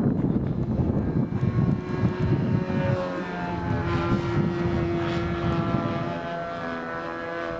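Radio-control model airplane's small glow engine buzzing in flight, heard over wind noise. The engine's pitch wavers up and down as it flies, and the sound slowly fades toward the end.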